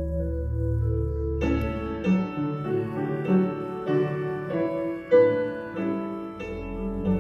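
Slow instrumental keyboard music in held chords. About a second and a half in it turns suddenly fuller and brighter. A deep bass line drops out, then comes back near the end.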